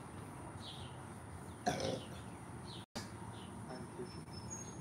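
Birds chirping in the background, a short call repeated every half second to a second. A short, louder noise comes about two seconds in, and the sound cuts out for an instant just before three seconds.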